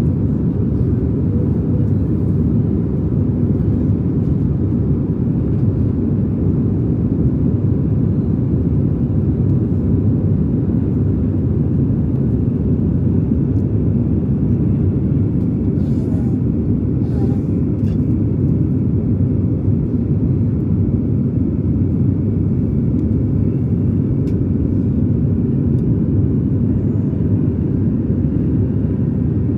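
Boeing 737 MAX cabin noise: steady, loud, low engine and airflow noise heard from inside the passenger cabin.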